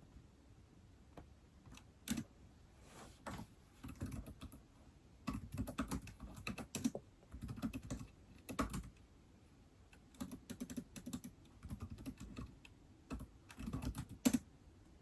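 Typing on an iPad: irregular runs of quick key clicks separated by short pauses, with a sharper, louder tap near the end.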